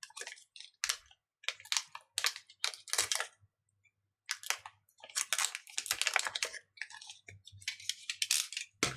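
Plastic packaging crinkling and rustling as a replacement screen is unwrapped, in quick irregular bursts with short pauses.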